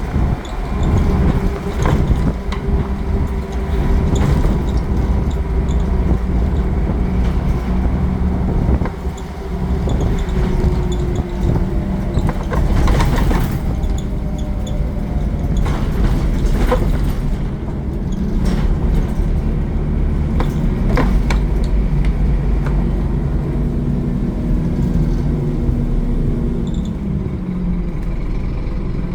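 Scania N230UD Omnicity double-decker bus under way, its five-cylinder diesel running steadily with the engine note shifting as it pulls and eases off, over road noise. Sharp clicks and rattles come through at intervals, and the engine pitch drops near the end.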